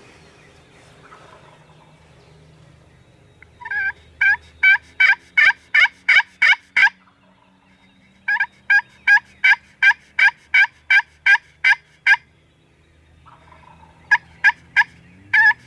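A hunter's turkey call making runs of hen yelps, each yelp breaking from a higher note to a lower one, about three a second. Two runs of about ten yelps, and a third starts near the end.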